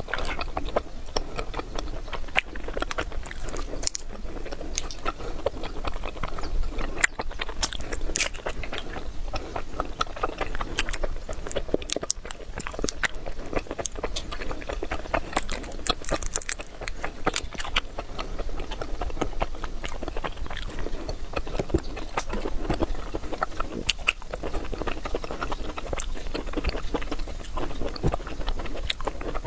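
Close-miked chewing and biting of small soft candies, with many short irregular clicks from the mouth.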